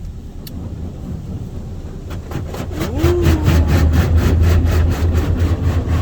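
Car wash bay machinery starting up: a single click, then a low rumble that builds, with a rapid regular clatter of about five ticks a second from about two seconds in.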